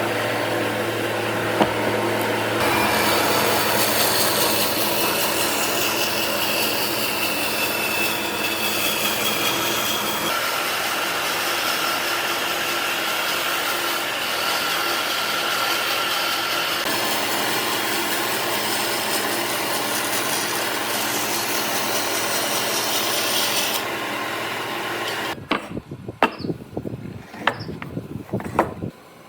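Power tool working on wood: loud, steady machine noise over a low motor hum, changing abruptly in tone a few times. Near the end it gives way to a handful of short, sharp scraping strokes.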